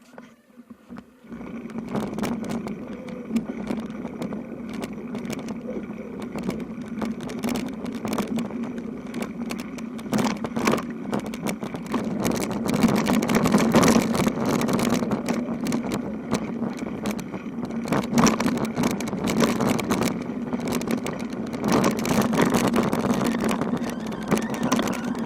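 Bicycle riding over a rough road: a steady low hum from the moving bike, with constant rattling and clicking. It starts about a second and a half in.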